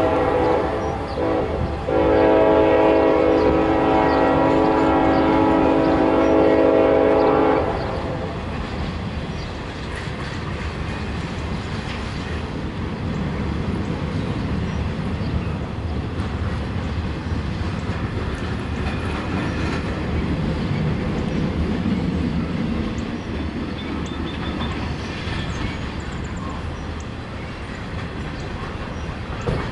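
A train horn blows a short blast, then a longer one about two seconds in that cuts off at about seven and a half seconds. After it, the double-stack intermodal train's container cars roll past with a steady rumble on the rails.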